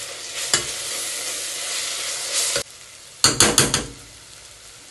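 Sliced onions and ginger-garlic paste frying in ghee in an aluminium pressure cooker, sizzling as a spatula stirs them, with a scrape about half a second in. The sizzle cuts off suddenly partway through, followed by a quick run of knocks.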